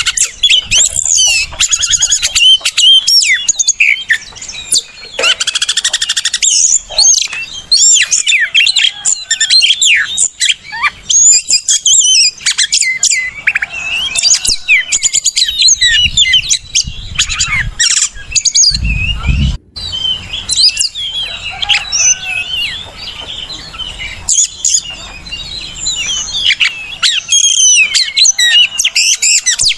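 Oriental magpie-robin (kacer) singing a rapid, varied song of whistles, trills and sharp chirps with hardly a break, the kind of song played to stir caged kacer into singing. A brief low thud comes about two-thirds of the way in.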